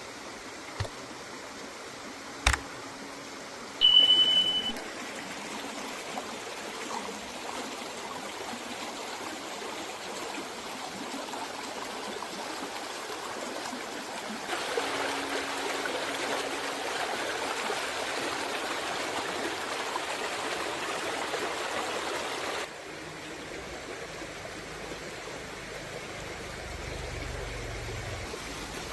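Steady hissing, rushing noise that gets louder for about eight seconds in the middle and then cuts off suddenly, with a sharp click about two and a half seconds in and a short high beep just after four seconds.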